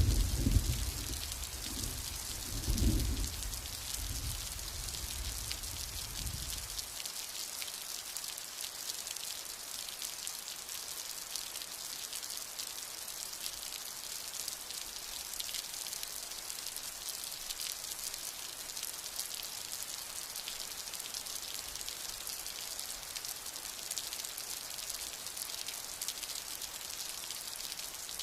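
Steady rain hissing with a patter of drops, while thunder rumbles low at the start, swells again about three seconds in and dies away after about seven seconds, leaving only the rain.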